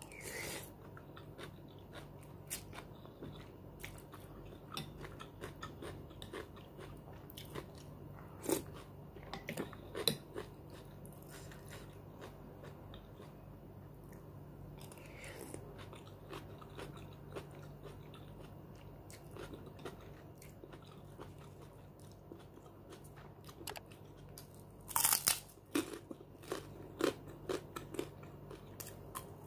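Close-miked eating: quiet chewing and mouth sounds from a bowl of beef soto with noodles, with scattered small clicks. About 25 seconds in comes a louder run of crunchy bites into a kerupuk cracker.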